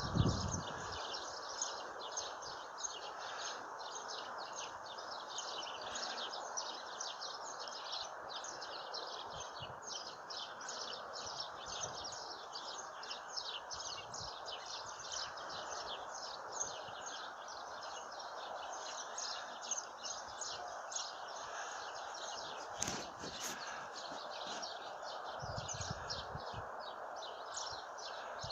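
Small birds chirping rapidly and continuously over a steady outdoor hiss, with a brief low bump at the very start.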